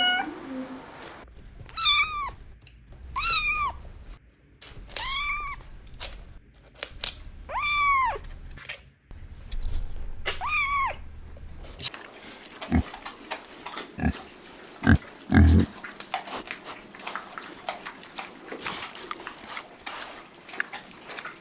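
Kitten meowing repeatedly, one short rise-and-fall meow every second or two. After that come scattered knocks and brief low sounds.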